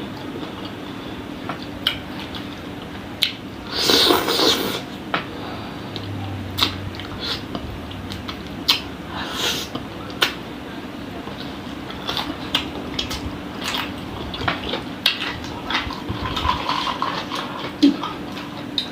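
Close-up mukbang eating sounds: chewing and sucking on spicy Padang-style chicken-feet satay, with scattered wet smacks and clicks and a louder rustle or clatter about four seconds in.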